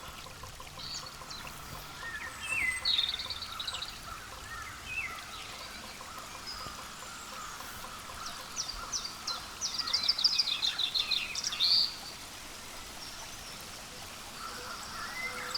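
Small songbirds calling over a steady outdoor background: a short run of rapid high notes about two and a half seconds in, scattered single chirps, then a longer, louder rapid series of notes around ten to twelve seconds in.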